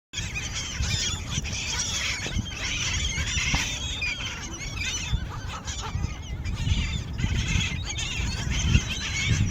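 A crowd of seagulls calling, many short squawks overlapping without a break, over a steady low rumble.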